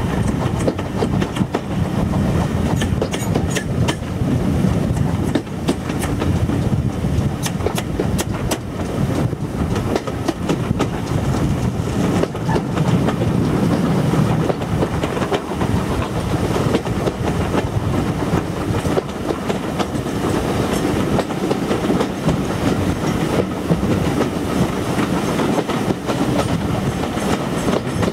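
A steam-hauled train of coaches running on the line, heard from a carriage window: a steady rumble of wheels on rail with sharp clickety-clack over the rail joints, the clicks most distinct in the first third.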